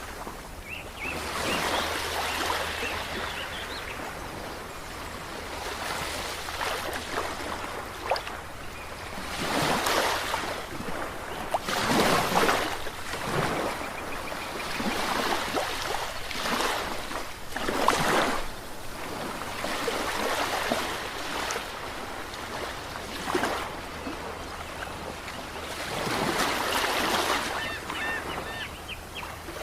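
Ocean waves, a steady wash of surf that swells into a louder breaking wave every few seconds, then recedes.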